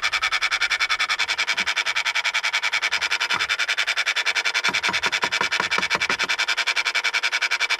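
Rapid, even electrical-mechanical ticking buzz, about a dozen pulses a second, from the engine bay of a 2014 Jeep Grand Cherokee EcoDiesel V6 with the ignition in run and the engine off. It is an abnormal weird sound, with a few low knocks partway through.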